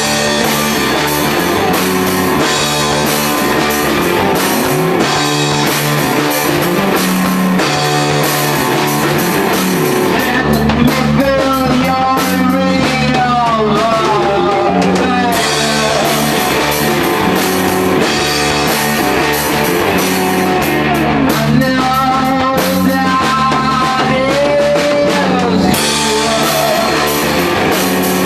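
Psychedelic rock band playing a song on drum kit and guitars. A melodic lead line with bending, gliding pitch comes in about eleven seconds in, and again about twenty-two seconds in.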